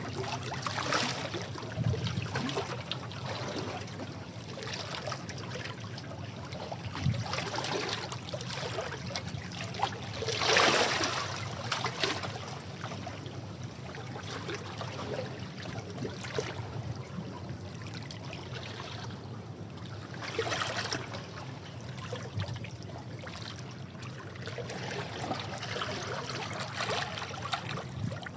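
Sea waves washing against rocks, with irregular splashes and surges of water over a continuous wash, the biggest surge about ten seconds in.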